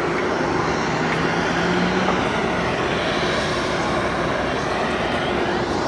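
Aircraft engine noise, loud and steady, from an airplane flying at an airshow.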